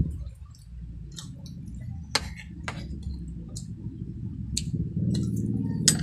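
Close-miked eating: wet lip smacks and chewing clicks as squid adobo and rice are eaten by hand. Scattered sharp ticks over a low rumble, the loudest about two seconds in and near the end.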